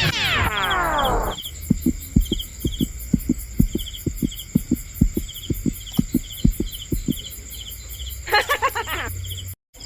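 A cricket chirping steadily, about two short chirps a second, over a constant high whine. In the first second a falling glide sweeps down, a string of low soft thumps follows for several seconds, and a brief warbling sound comes near the end.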